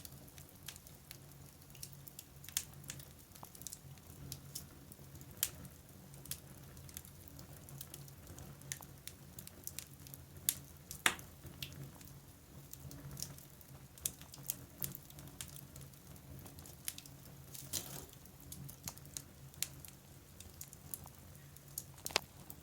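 Fire crackling in a fireplace: irregular sharp pops and snaps, a few of them much louder, over a faint steady low hum.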